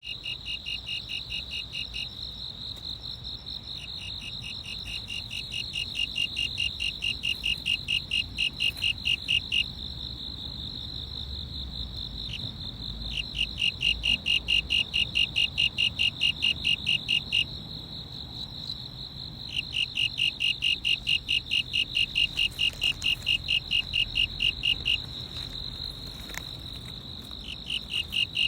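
Calling insects in chorus: a steady high trill runs throughout, while a second caller joins in bouts of rapid, evenly spaced pulses that last several seconds, stop, and start again.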